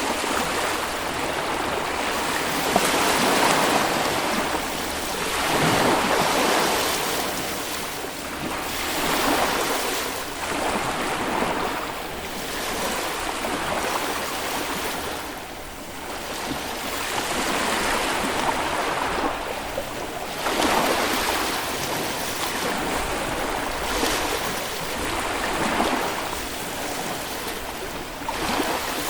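Small Baltic Sea waves breaking and washing up a sand beach, the surf swelling and falling back every few seconds.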